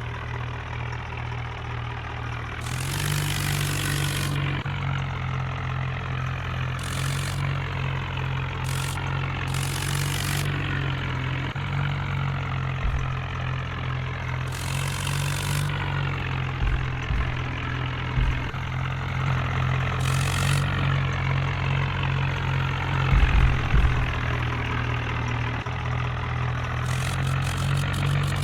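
Tractor engine running steadily at an even, low speed. Short bursts of hiss come now and then, and a few low thumps fall about two-thirds of the way through.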